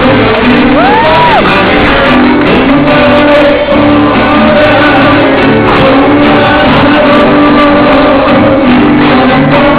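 A group singing loudly together with shouts mixed in. A brief whistle-like note rises and falls about a second in.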